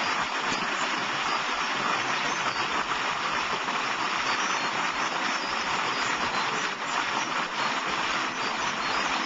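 Flowing water rushing steadily, an even hiss with no pauses.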